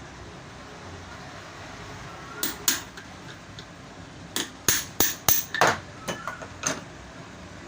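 Sharp metal knocks as the worn ball bearing of a pedestal fan motor is tapped out of its housing. Two knocks come first, then a quicker run of about eight.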